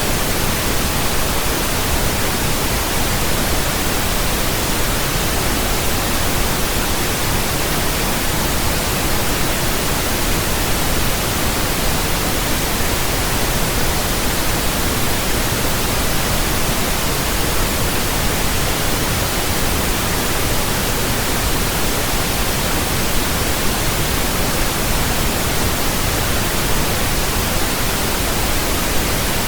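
Steady pink noise: an even, unchanging hiss across all pitches, deeper than white noise.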